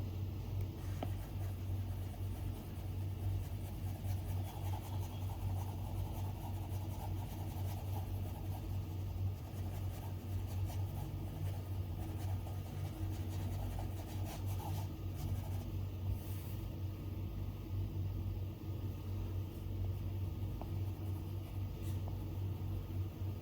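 Stylus strokes on an iPad's glass screen: soft scratchy rubbing as lines are drawn, with scattered light ticks of the tip touching down, over a steady low hum.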